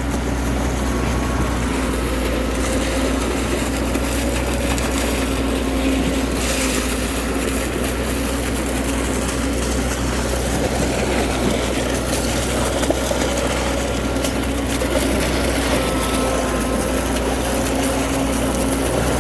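An engine running steadily with a constant low hum and no changes in speed.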